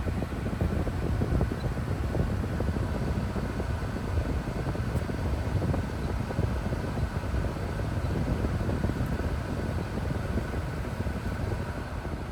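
Infiniti Q60's 3.0-litre twin-turbo V6 running, heard as a steady low rumble with an even noise over it.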